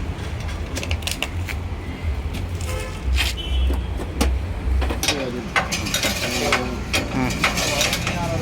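Tools clicking and clanking on metal as wheels are bolted onto a portable generator's frame, over a steady low rumble.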